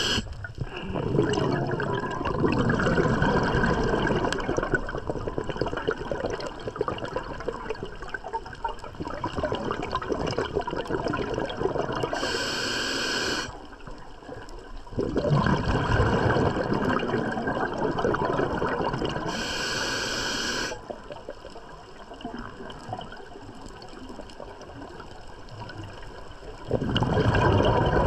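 Scuba diver breathing through a regulator underwater: long bubbling exhalations alternating with short hissing inhalations, two of them, about 12 and 19 seconds in, with a quieter pause before the bubbling returns near the end.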